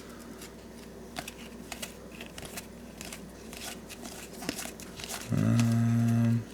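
Trading cards being handled and flipped, light clicks and rustles of card stock. Near the end a man hums a single steady note for about a second.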